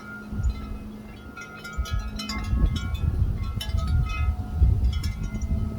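Chimes ringing at several pitches, struck at irregular moments, each tone fading away, over a low rumble that grows louder in the second half.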